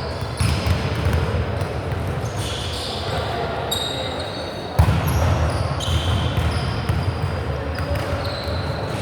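Volleyball play on an indoor court: sneakers squeaking in short high chirps on the floor over indistinct voices, with one loud smack of the ball about five seconds in.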